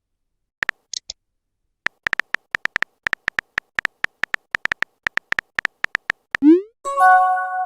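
Phone on-screen keyboard typing clicks, a quick irregular run of short ticks, then a short rising swoosh about six and a half seconds in and a brief chord-like message notification tone near the end.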